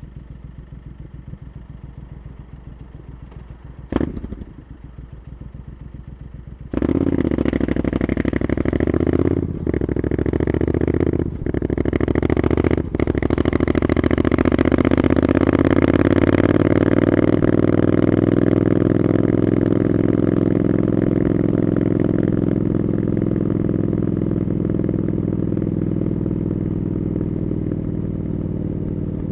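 Triumph Scrambler 900's parallel-twin engine through Arrow exhaust pipes, running low and quiet, with a sharp click about four seconds in. About seven seconds in it opens up suddenly and pulls away, with three quick breaks in the sound between about nine and thirteen seconds as it shifts up. It then runs loud and steady, its pitch slowly falling near the end.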